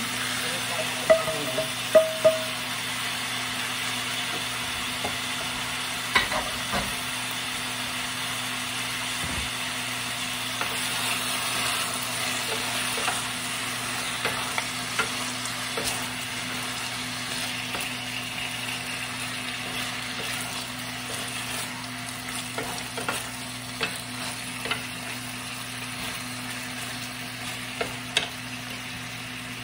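Cabbage, tofu and mushrooms sizzling in a nonstick frying pan while being stirred and tossed with wooden spatulas, with scattered knocks of the utensils against the pan. A few sharp clatters come about a second in, as fried tofu is scraped in from another pan with a metal turner.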